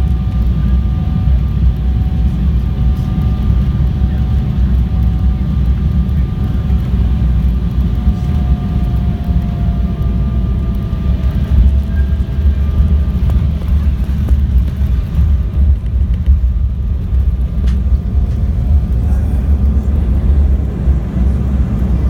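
Steady low rumble inside a jet airliner's cabin during landing, with faint engine tones that sink slightly in pitch about ten seconds in.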